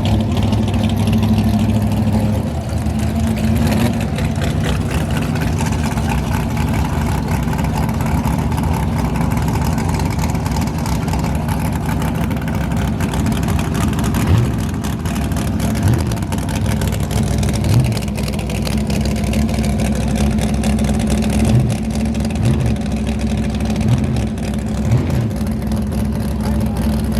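A vehicle engine running steadily with a low drone, with several short bumps in the second half.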